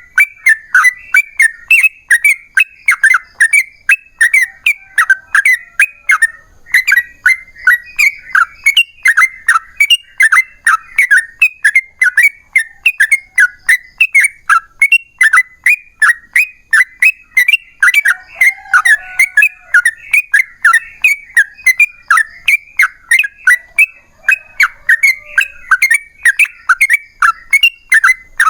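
Yellow-vented bulbul singing a long, unbroken run of rapid chattering notes, about three a second.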